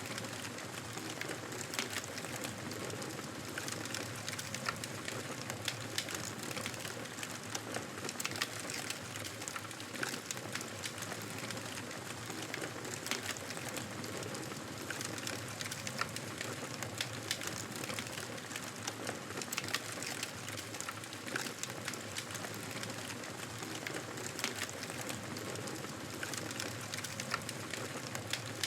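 Fire burning in a fireplace: a steady hiss of flames with many small, irregular crackles and pops.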